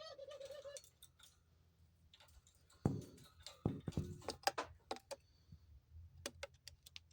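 Caged pet birds moving about and handling the cage: a run of sharp clicks, taps and light rattles from beaks and feet on the bars and fittings, starting about three seconds in. A short, low, wavering call comes right at the start.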